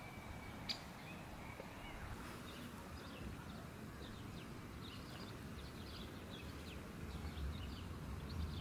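Small songbirds chirping in quick, repeated short notes, most of them from about two seconds in, over a steady low rumble of outdoor background noise. There is one sharp click about a second in.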